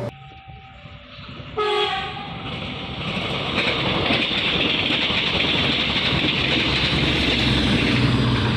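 A passenger train sounds a short horn blast about one and a half seconds in. It then passes close by with a steady rumble of wheels on rail and a strong high hiss.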